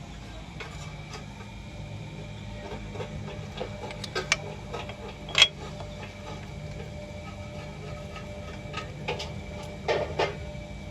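Scattered clinks and knocks of repair work on a car, over a steady low hum. The loudest knock comes about five and a half seconds in, with a close pair near the end.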